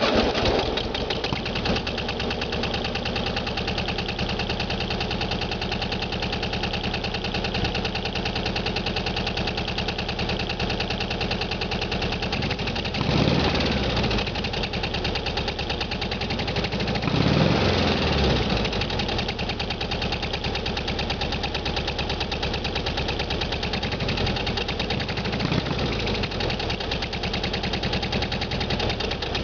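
1972 Volkswagen Super Beetle's air-cooled 1600cc flat-four idling after a cold start, revved up and back down briefly twice, about 13 and 17 seconds in.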